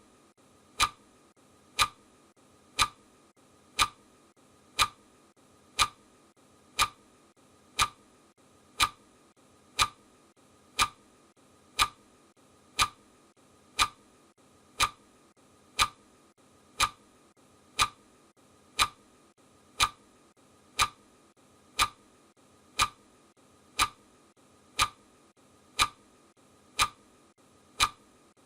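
Clock ticking sound effect: a sharp, even tick once a second.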